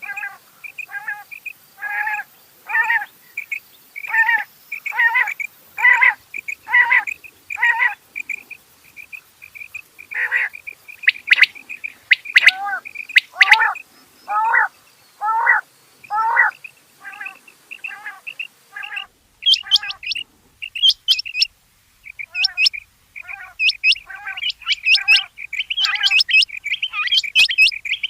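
Rain quail calling: short, sharp notes repeated about once or twice a second in a long series, each note dropping in pitch, with some higher, sharper notes mixed in.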